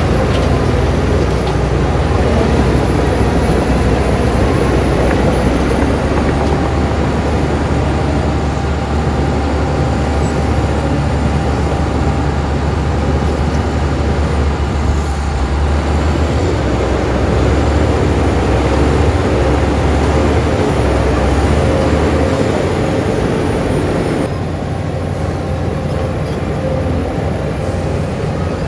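Heavy diesel earthmoving machinery running steadily with a deep engine drone. It becomes slightly quieter and duller about 24 seconds in.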